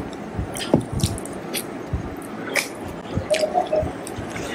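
Close-up eating sounds: wet chewing and smacking with irregular small clicks.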